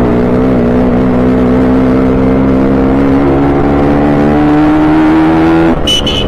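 Escorts Yamaha RX-series two-stroke single-cylinder motorcycle engine running under way, heard from the rider's seat, its note rising slowly as it accelerates in gear. Near the end the note drops for a gear change and a short high-pitched beep sounds.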